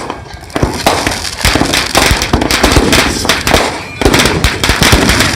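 Firecrackers going off in a rapid, dense string of sharp cracks. There is a short lull about half a second in, and a louder, denser stretch from about four seconds.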